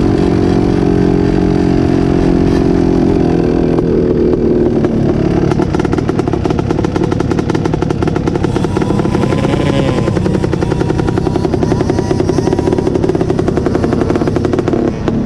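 Off-road vehicle engine running loudly: held at steady revs for about the first four seconds, then a fast, rattling run of firing pulses for the rest.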